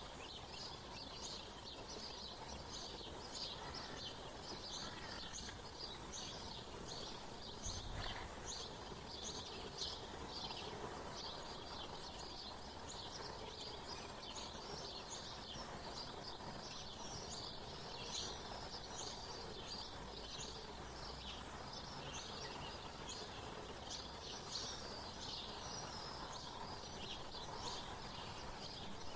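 Small songbirds chirping, many short high calls overlapping without a break, over a steady outdoor background hiss.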